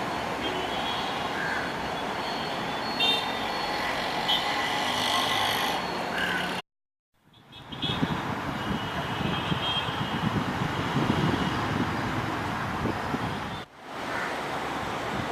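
Busy city road traffic: a steady rumble of engines and tyres with a few short high beeps in the first half. The sound cuts out abruptly about halfway through, then comes back with a heavier low rumble for several seconds.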